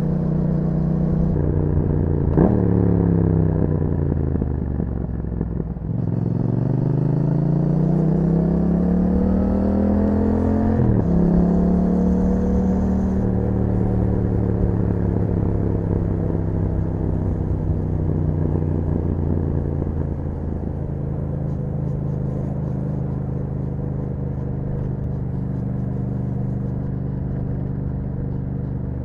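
Yamaha MT-07's parallel-twin engine through an aftermarket Akrapovic exhaust, ridden. A quick rev blip about two seconds in, the note falling off, then a long climb in pitch under acceleration that drops sharply at a gear change. After that it settles into a steady run.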